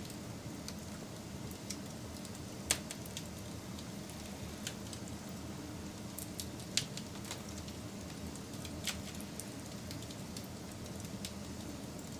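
Campfire burning with a steady hiss and scattered crackles and pops of burning wood, two of them sharper and louder than the rest, about three and seven seconds in.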